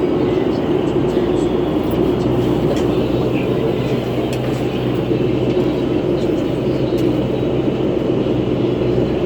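Cabin sound of a 2011 New Flyer C40LF transit bus under way: a steady drone of engine, fan and road noise with a constant low hum, and a few faint rattles.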